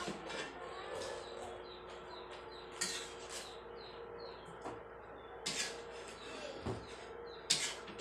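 Birds chirping: many short, high calls falling in pitch, scattered irregularly, over a steady low hum.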